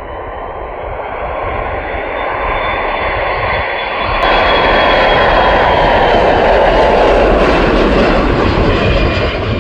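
KC-135 tanker's jet engines growing steadily louder as it comes in low and passes, with a high whining tone over the rushing noise. The sound cuts off suddenly near the end.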